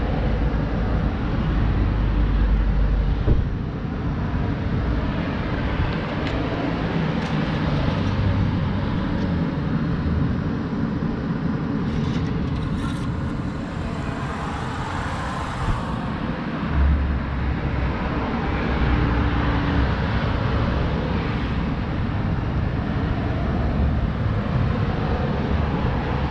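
Dodge Charger's Hemi V8 idling steadily with the hood open.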